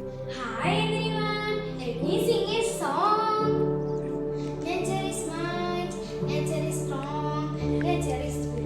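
A child singing a melodic song over a steady instrumental backing of held tones.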